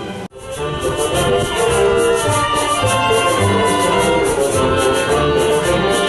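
Symphony orchestra playing, strings and brass sustaining notes over a steady, quick beat in the high percussion. The sound drops out for a moment just after the start, then the music comes back in full.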